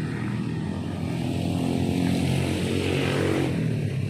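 A motor vehicle's engine running as it passes close by, swelling to a peak about three seconds in and then easing off.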